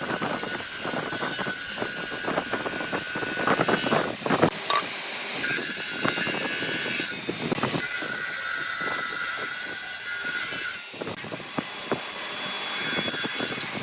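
A handheld power tool working hardwood, running with a steady high whine and harsh scraping. It comes in passes of a few seconds with short breaks between them.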